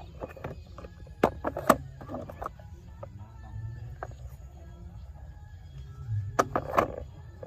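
Sharp clicks and clatter of hard toy cars being handled, in two quick clusters, over a steady low hum.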